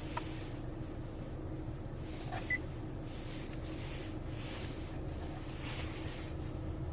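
Car engine running steadily at idle, with a faint click near the start and a short high beep about two and a half seconds in.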